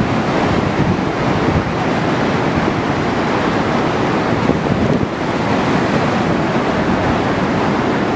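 Strong thunderstorm wind blowing hard across the microphone: a loud, steady rushing roar.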